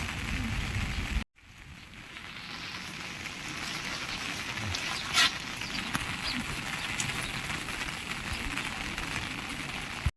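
Steady rain pattering. It cuts out about a second in and fades back up. One sharp knock about five seconds in.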